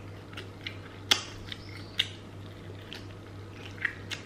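Close-miked chewing of crispy fried chicken drumstick, with scattered sharp crunches and wet mouth clicks; the loudest crunches come about a second in and at two seconds, with two more near the end. A faint steady low hum lies underneath.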